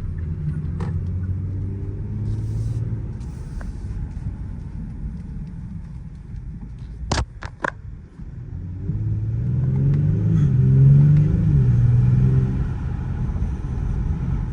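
2019 Genesis G70's 3.3-litre twin-turbo V6, on its stock exhaust, running as the car drives. A few sharp clicks come about halfway through, then the engine note climbs and grows louder as the car accelerates.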